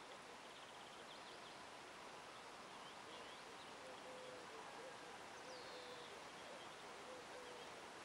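Faint birdsong over a quiet outdoor background: a low short call repeated over and over, with a few high chirps.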